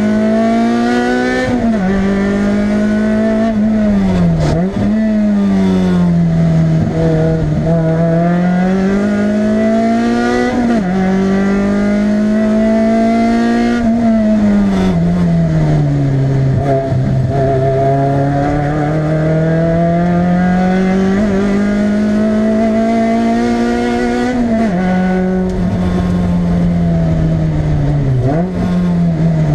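Toyota MR2 Spyder's mid-mounted 1.8-litre four-cylinder engine at racing pace, heard from inside the cabin. The engine note climbs steadily, then drops sharply every few seconds with the gear changes, lap after lap.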